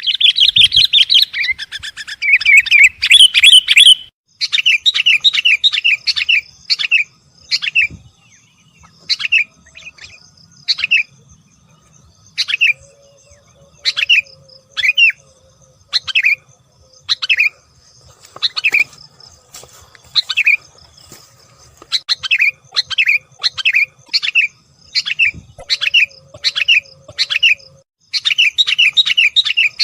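Sooty-headed bulbul calling: a dense run of rapid chattering notes for the first few seconds, then short, clear call notes repeated about once or twice a second, sometimes in quick runs of three or four.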